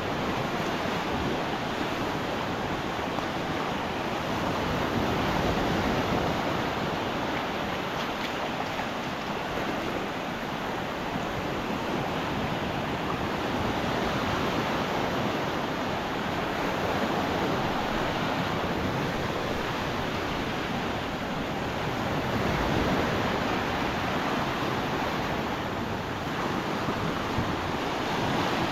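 Surf breaking and washing onto a sandy beach, rising and falling in loudness with the waves, with wind rumbling on the microphone.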